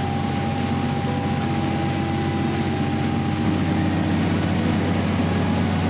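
An engine running steadily, a constant low drone with a faint high steady tone over it.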